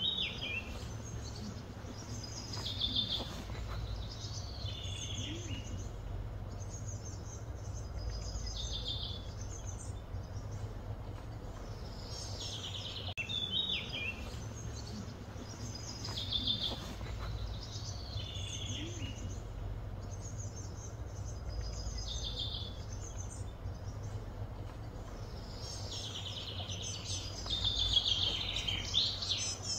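Birds calling: short, high-pitched, falling phrases repeated every two to three seconds, over a steady low hum.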